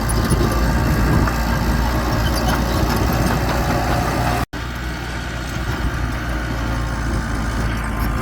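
Diesel engine of heavy earthmoving equipment running steadily with a deep, low hum. The sound cuts out completely for a split second about halfway through.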